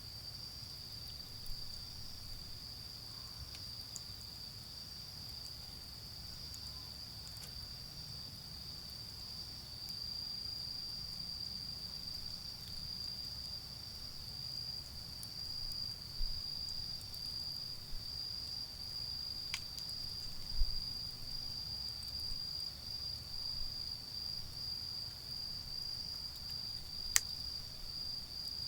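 Autumn crickets trilling in one continuous, steady, high-pitched chorus, over a low rumble of distant road traffic. A few sharp single pops from the charcoal fire, the loudest near the end.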